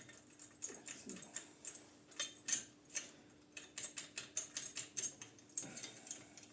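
Irregular small metal clicks and taps as nuts, washers and spacers are handled and fitted onto bolts while mounting a bicycle disc brake, with a faint steady hum beneath.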